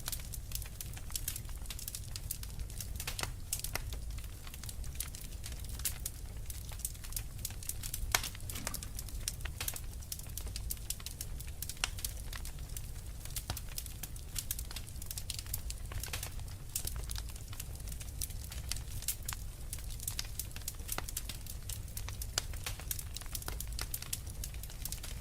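Fire in a fireplace crackling: many irregular sharp snaps and pops over a steady low rumble, one louder snap about eight seconds in.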